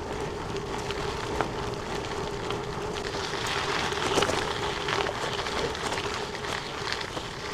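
Panaracer GravelKing SK Plus 45 mm bicycle tyres rolling over a gravel road: a steady crunching hiss dotted with many small clicks of loose stones.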